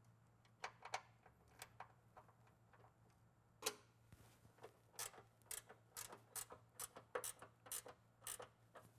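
Faint, irregular sharp metallic clicks and taps of hand tools working on exhaust parts, sparse at first and coming about twice a second from about halfway in, over a faint steady hum.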